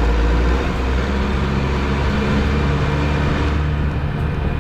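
Motor vehicle travelling at a steady speed: a low, steady engine drone with road and wind noise.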